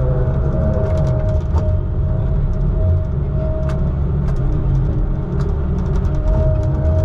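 Heavy logging equipment's diesel engine running steadily, a deep rumble with a steady whine that drops out and returns, and scattered light clicks.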